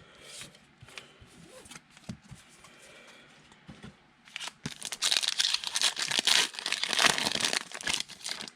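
Foil trading card pack being torn open and crinkled, a loud crackling noise lasting about three seconds in the second half, after a few faint clicks of cards being handled.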